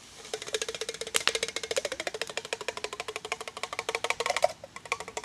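A utensil clattering rapidly against a metal cooking pot, about ten strikes a second for some four seconds, the pot ringing with each strike, as when food is mixed or beaten in the pot.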